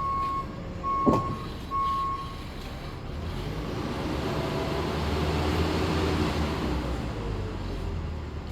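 Three steady, evenly pitched beeps of a vehicle's reversing alarm, with a single sharp knock about a second in. Then a heavy vehicle's engine running grows louder over several seconds and eases off near the end.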